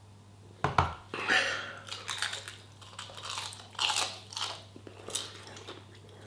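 A thump just under a second in, then close-up biting and crunching chewing of a crisp, oven-baked coated snack, several crunches in a row.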